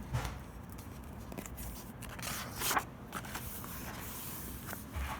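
Paper rustling in a few short bursts, the loudest about two and a half seconds in: the page of a picture book being turned.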